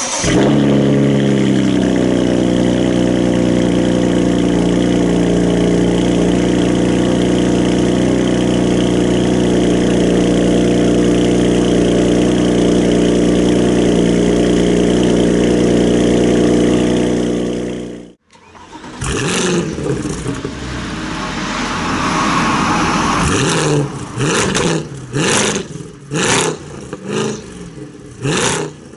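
A car engine fires up and idles steadily through twin exhaust tips, its pitch settling a little lower in the first seconds. After a cut, a Mercedes C63 AMG estate's V8 is revved once, then blipped in a quick run of short, sharp revs near the end.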